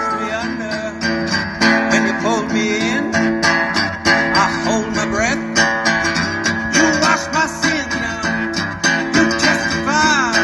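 Acoustic guitar strummed in a live blues tune, with notes bending up and down in pitch.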